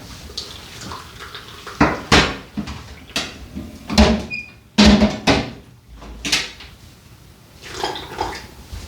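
Irregular knocks and clatters of cookware and kitchen things being handled, set down and moved, about ten in all, some with a short ring.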